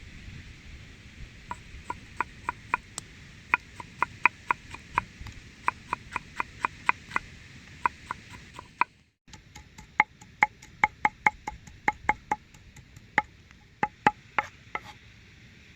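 Kitchen knife chopping on a wooden cutting board: a long series of sharp knocks at an uneven pace of about two to four a second, broken by a brief gap about nine seconds in.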